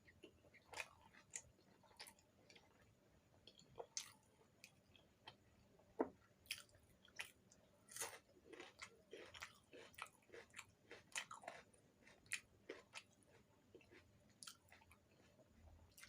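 A person chewing and biting puri (deep-fried wheat bread) with spiced potato curry close to the microphone: irregular mouth clicks and smacks, several a second, with one sharper bite about six seconds in.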